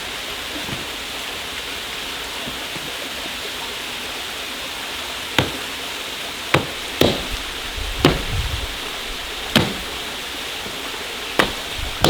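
Steady rush of a waterfall, and from about halfway through six sharp wooden knocks about a second apart, as firewood is chopped for a campfire.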